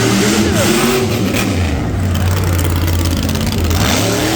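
Monster truck engine running and revving hard as the truck starts its run.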